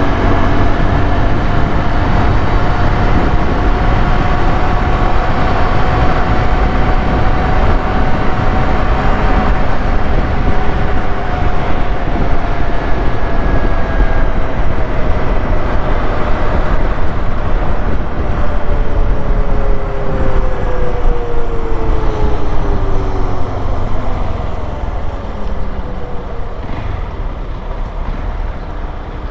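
Honda XRE 190's single-cylinder engine running under way. Its pitch holds fairly steady at first, then falls over the second half as the bike slows and the sound gets quieter near the end.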